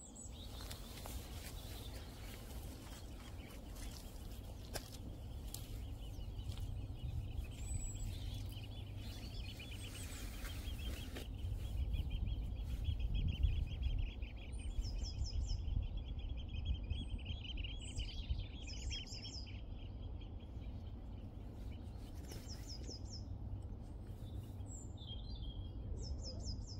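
Small songbirds singing: a long, rapid chattering trill, joined in the second half by short high buzzy phrases repeated every few seconds, over a steady low rumble.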